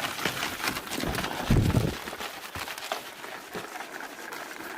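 Gritty crackling and scraping of rock salt being scattered over a snowy, icy walkway, with a dull thump about a second and a half in.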